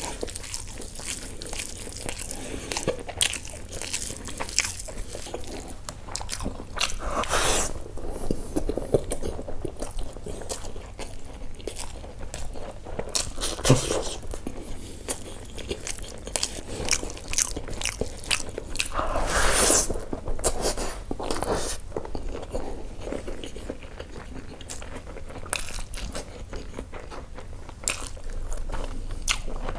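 Close-miked chewing and biting of a person eating basmati rice and mutton keema kaleji curry by hand, a steady run of small wet mouth clicks with a few louder mouthfuls about a quarter and two thirds of the way through.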